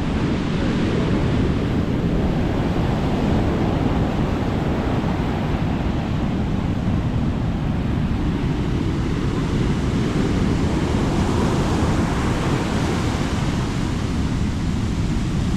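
Sea waves breaking and washing up on a beach in a steady, continuous surge that swells and eases, with wind rumbling on the microphone.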